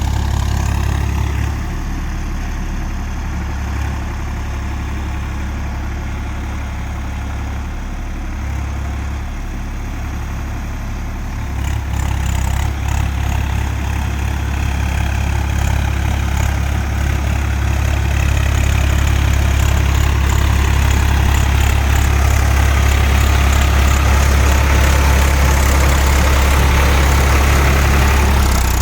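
Swaraj 855 FE tractor's diesel engine running steadily with a deep hum, growing louder about a third of the way in and again past the middle.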